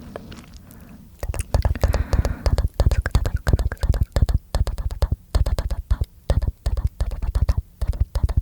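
Close-miked mouth sounds: rapid wet clicks and pops made with the tongue and lips, faint at first and then in loud quick clusters from about a second in.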